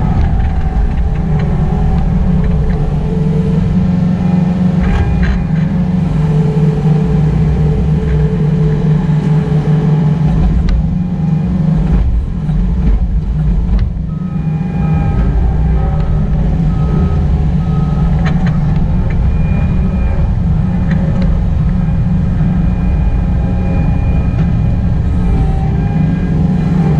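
Excavator's diesel engine running steadily under work, its pitch shifting now and then as the machine works, with a brief drop in level about halfway through.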